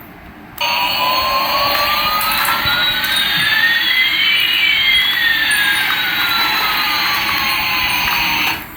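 Electronic jet-engine sound effect from a small speaker: a steady hiss with one whine rising and another falling, crossing about midway. It starts about half a second in and cuts off suddenly near the end.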